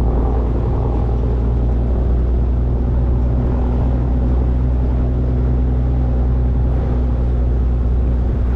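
Motorboat engine running steadily under way, a low even hum heard from aboard the boat.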